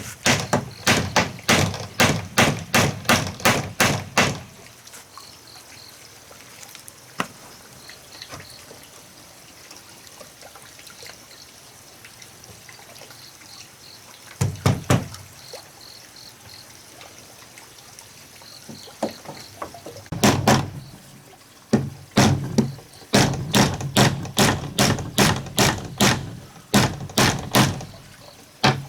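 Repeated blows struck on wood, about three a second, in two long runs with a short burst in between and a quieter pause in the middle.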